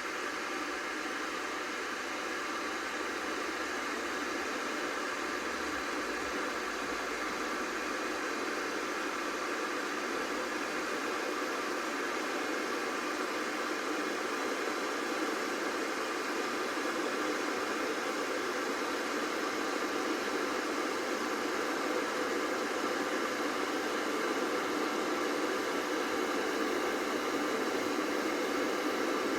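Electric kettle heating water towards the boil: a steady rushing hiss that slowly grows louder.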